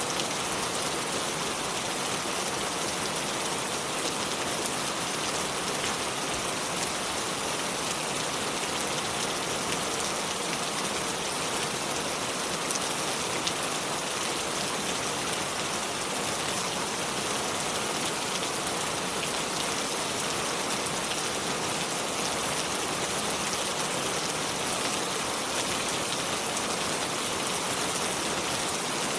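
River water flowing over stones: a steady, even splashing hiss that stays the same throughout.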